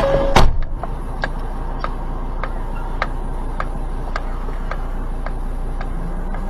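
A loud thump about half a second in, then a car's indicator ticking steadily, a little under two ticks a second, over a low cabin hum.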